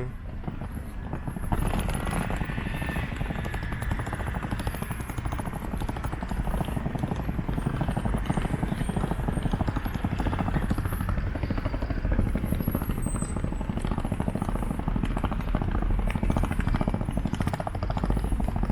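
Steady low rumble of wind buffeting the microphone outdoors, with rapid flutter and no clear pitch.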